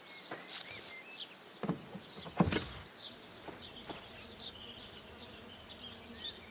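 Quiet ambience of faint, scattered high chirps, with a few short knocks or thumps, the loudest about two and a half seconds in.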